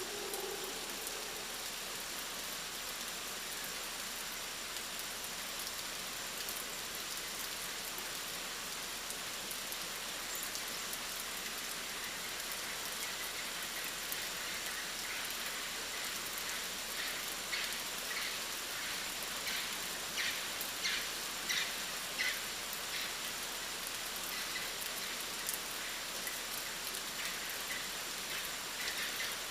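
Steady rainfall in the rainforest, an even hiss of rain on the surface. From about halfway, short high chirps repeat above the rain.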